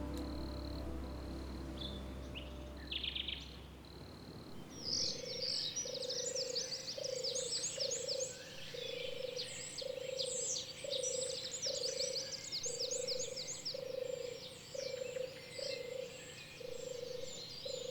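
A frog or toad calling in a steady series of short, low notes, about one or two a second, starting about four seconds in, with a busy chatter of high chirps above it. Soft background music fades out during the first few seconds.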